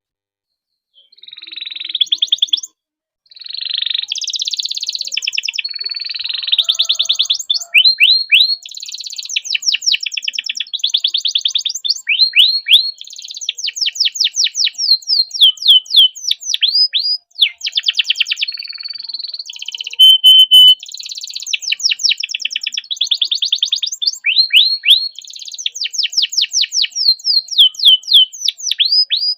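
Domestic canary singing a long song of fast trills and rolls, runs of rapid repeated downward-sweeping notes, starting about a second in with brief breaks, and one held whistle about two-thirds of the way through.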